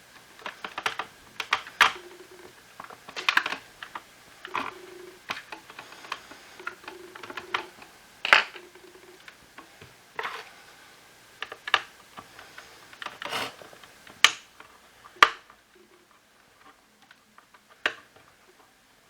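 Irregular clicks and knocks of plastic vacuum-cleaner parts and hand tools being handled during disassembly of a Shark cordless stick vacuum, with several brief low hums in the first half.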